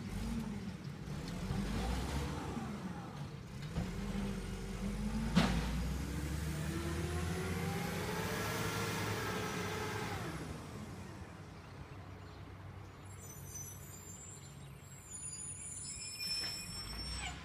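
Garbage truck engine running, revving up from about six seconds in and holding before dropping back around ten seconds, with a single sharp bang about five seconds in.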